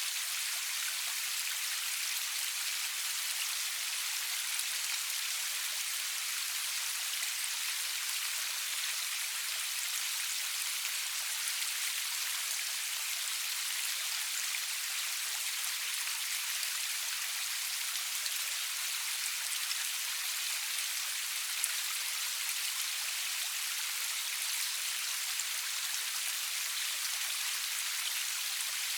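Steady rain falling, a dense even patter of drops with no thunder and no music.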